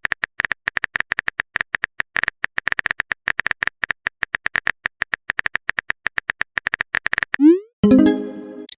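Rapid clicks of a phone keyboard typing sound effect, each with a short high beep, running for about seven seconds. Near the end comes a quick rising swoosh and then a chiming message sound.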